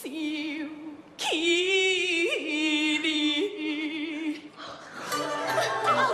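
Gezai opera music: a long held note sung with wavering vibrato and small slides in pitch, then traditional instruments come in near the end.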